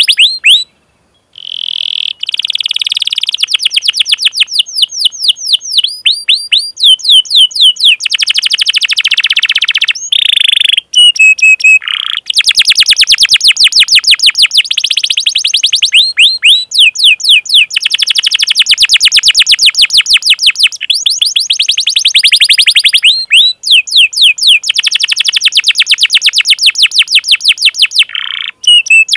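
Canary singing long, fast rolling trills of repeated high sweeping notes, with short 'cuit cuit' chirps between phrases and a brief pause about a second in.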